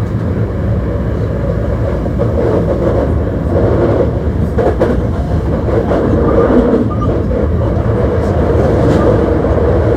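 Hankyu 1300 series electric train running between stations: a steady rumble of wheels on rail, with a few faint rail clicks.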